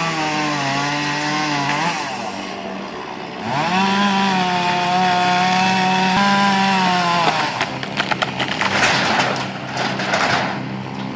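Chainsaw running at full throttle and cutting, in two long steady runs: one that ends about two seconds in, and another from about three and a half seconds to seven. It is followed by a fast, irregular run of sharp cracks and snaps of breaking wood lasting about three seconds.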